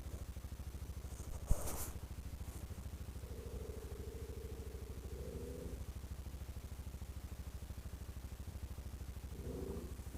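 ATV engine idling with a steady, even low pulse, with one sharp click about a second and a half in.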